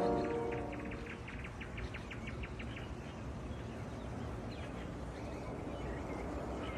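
Background music fades out in the first second, leaving outdoor ambience with a small bird chirping: a quick run of short high chirps over the next few seconds, then a few scattered chirps.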